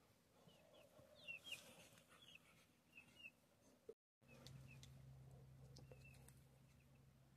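Near silence with faint, short, high bird chirps, a few in the first four seconds and a couple more later. A brief dropout about four seconds in is followed by a faint low steady hum.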